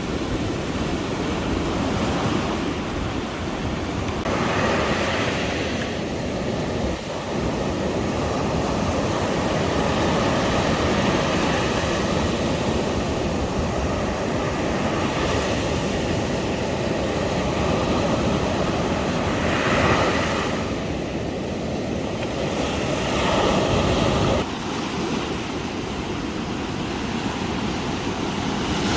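Ocean waves washing onto a beach, with wind on the microphone. The surf swells and falls several times, loudest about twenty seconds in and again shortly after.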